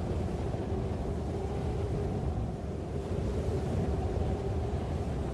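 Steady low rumble of a running vehicle, with a faint held hum.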